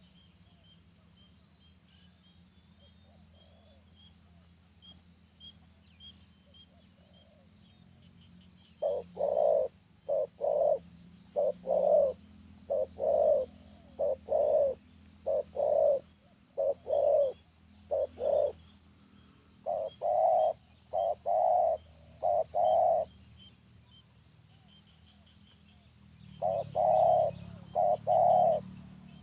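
Spotted doves cooing in repeated groups of loud coos. The calls start about nine seconds in, run in bursts with short gaps, and pause for a few seconds before a last group near the end.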